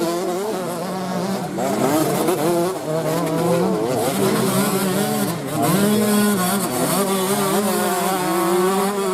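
Several off-road racing motorcycles' engines revving, rising and falling in pitch with throttle and gear changes, more than one engine at once.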